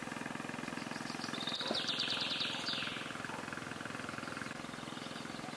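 A bird's short, fast chattering trill of high notes from about one and a half to three seconds in, over a steady rapid pulsing drone.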